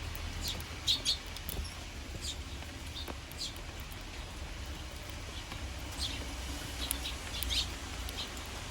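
Eurasian tree sparrows chirping: short, high, separate chirps every second or so, over a steady low background rumble.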